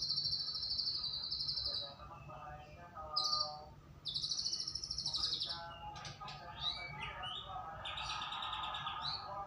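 White-rumped shama singing a varied song: long, fast buzzy trills alternate with lower whistled phrases and quick rising and falling notes. A faint steady low hum runs underneath.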